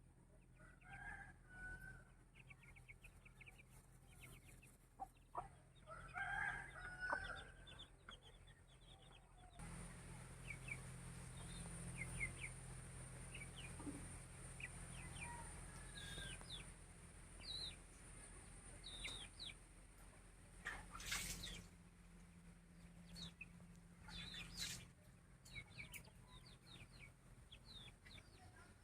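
Aseel chickens clucking and calling faintly, with a louder burst of calls about six seconds in and many short high chirps later on.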